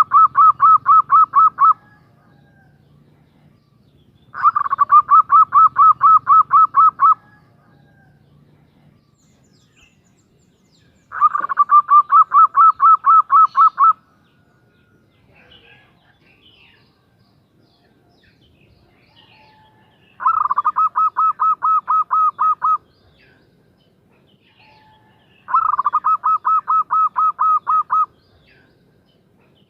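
Female zebra dove (perkutut) calling: bursts of rapid, evenly repeated cooing notes, about six a second, each burst lasting two to three seconds, with pauses of a few seconds between; the tail of one burst and four more.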